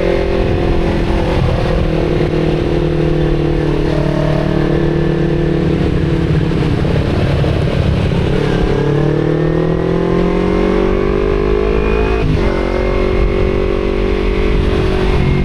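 Kawasaki Z250 parallel-twin with an Akrapovic exhaust under way: the engine note eases slowly down, then climbs steadily for about four seconds, drops abruptly at an upshift about twelve seconds in, and pulls on again in the next gear. Wind rush runs underneath throughout.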